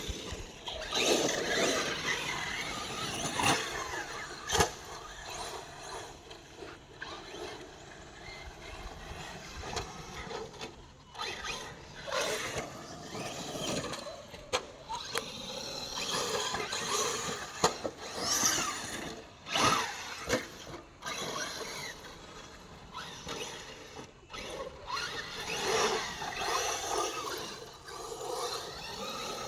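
Electric RC monster trucks running on 4S batteries, their brushless motors whining up and down in pitch with the throttle, with scattered knocks as the trucks land and hit the ground.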